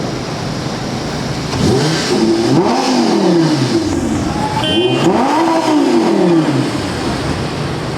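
Supercar engine revved twice, each rev climbing in pitch and then falling back.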